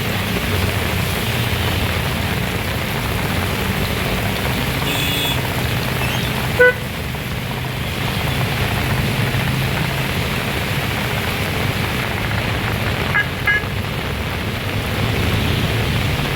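Heavy rain and strong wind: a loud, steady hiss over a low, continuous rumble. A few short high pitched blips cut through, the loudest about six and a half seconds in.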